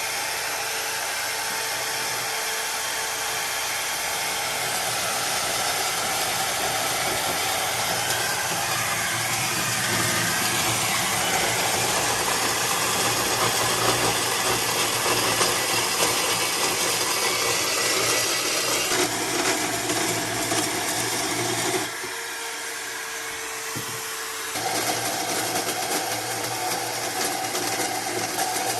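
Power tool running continuously under load, as in cutting or grinding exhaust pipe. The level drops briefly about 22 seconds in and picks up again about two seconds later.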